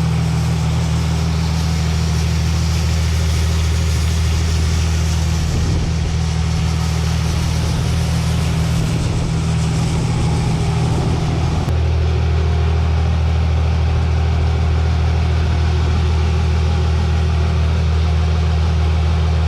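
Cummins diesel engine running steadily at idle. About six seconds in its low note goes rough and uneven, then settles back to a smooth idle about twelve seconds in.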